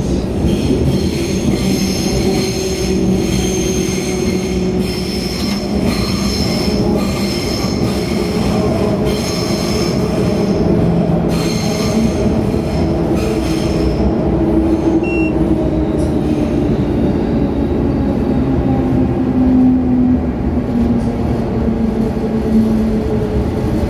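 Running noise inside a Munich S-Bahn class 420 electric train at speed: a steady rumble of the wheels with a low hum that slowly glides in pitch. High-pitched wheel squeal rings over it for the first half and fades out about thirteen seconds in.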